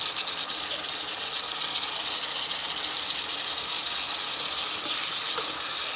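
Pork and banana peppers sizzling in a hot pan as they are stir-fried, a steady sizzle with no break.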